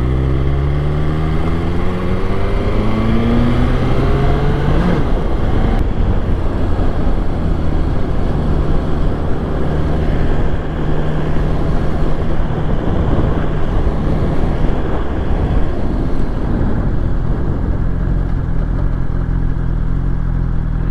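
BMW S1000XR inline-four engine pulling away, its pitch rising through the gears over the first five seconds or so. It then settles into steady cruising under a constant rush of wind and road noise.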